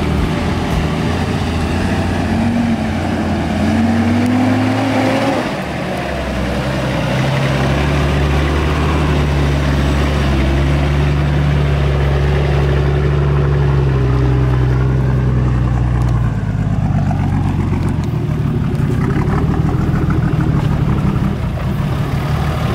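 Four-wheel-drive engines running as the vehicles crawl up a rough track. The revs rise once, then settle into a steady low engine note for several seconds before easing off.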